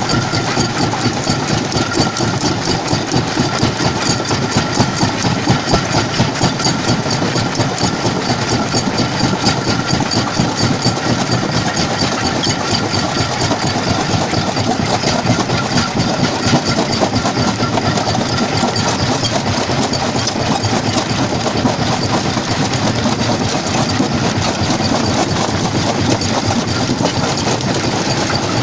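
Jaw crusher running and crushing stone: a loud, steady mechanical din made of a dense rattle of many small knocks. A faint thin whine runs underneath and fades out about two-thirds of the way through.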